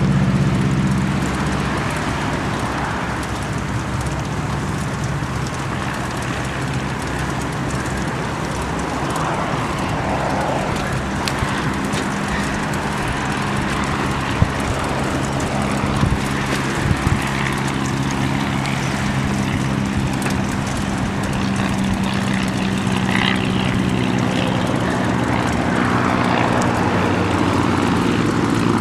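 An engine running steadily, its pitch rising a little near the end.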